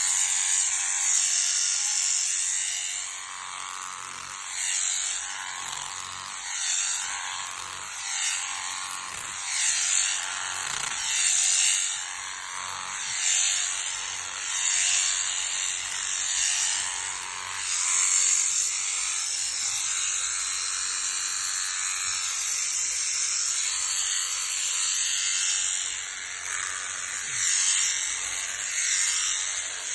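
Electric sheep shears buzzing steadily, getting louder and softer every second or two as they work through the fleece.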